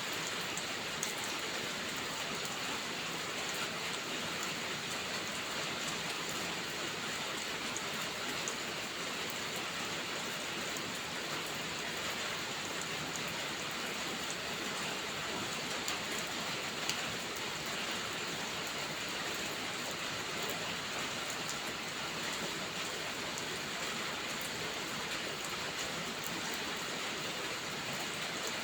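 Steady rainfall, an even hiss of rain on surfaces, with a few faint sharp ticks scattered through it.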